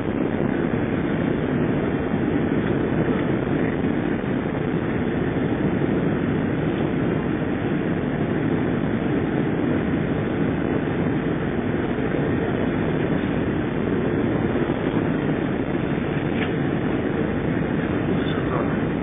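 Steady rushing noise of an Airbus A300 jet airliner heard from inside the passenger cabin: engines and airflow, even in level with no distinct thump or change.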